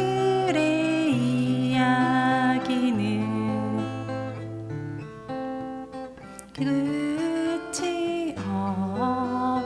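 Acoustic guitar played with a voice singing along to it. The singing breaks off briefly around the middle and comes back about two-thirds of the way through.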